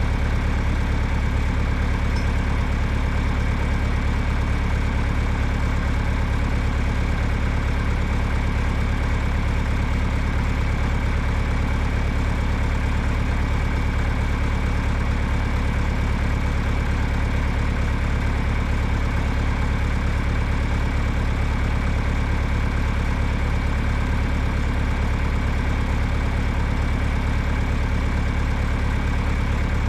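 John Deere tractor engine idling steadily, with an even, unchanging note.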